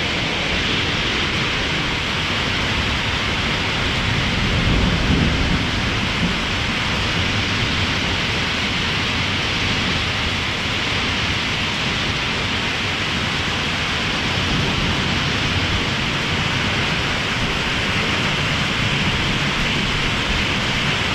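Heavy rain pouring steadily onto a roof in a thunderstorm, with a low rumble of thunder swelling about five seconds in.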